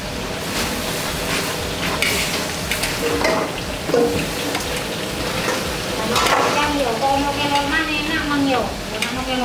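Food frying and sizzling in a pan as it is stirred, with scattered scrapes and clicks of the utensil. People talking join in from about six seconds in.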